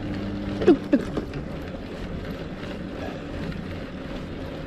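Steady wind and road noise on a bicycle-mounted microphone while riding. About a second in come two short, loud sounds a quarter second apart, each quickly falling in pitch.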